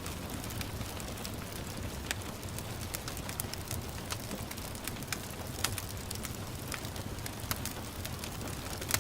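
Wood fire crackling, with irregular sharp pops about once or twice a second, over a steady hiss of gentle rain.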